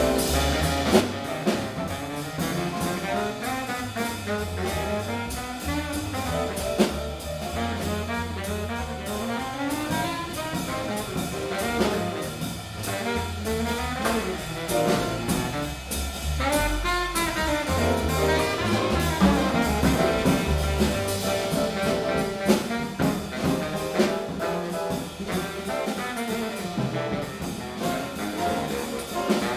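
Jazz quintet of baritone saxophone, trumpet, piano, double bass and drums playing a jazz standard: a horn line over bass notes and a drum kit, without a break.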